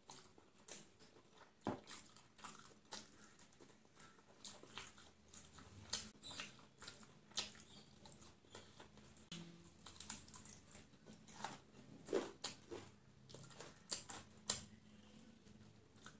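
Close-up eating sounds: crispy fried chicken being chewed with wet mouth smacks and crunchy clicks, coming several times a second at an uneven pace.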